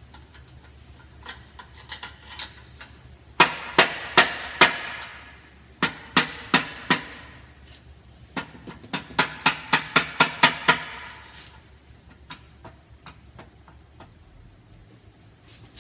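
Metal exhaust pipe of a 1982 Honda CM450E being struck hard to knock it loose from the bike, because it is stuck. The strikes come in three bursts: about four, then four more, then about ten quicker ones. Each has a short ring, with lighter taps between the bursts.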